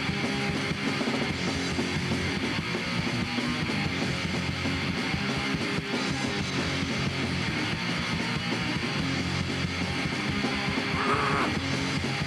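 Punk rock band playing live, with electric guitar, bass and drums in an instrumental passage without vocals.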